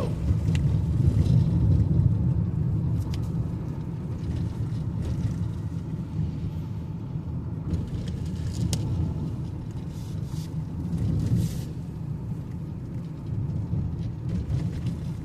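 Car driving along a road, heard from inside: a steady low rumble of engine and tyres, with a few faint brief knocks.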